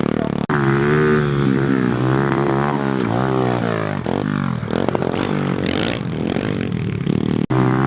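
Pit bike engine revving hard, its pitch rising and falling again and again as the throttle is worked, with two very brief breaks.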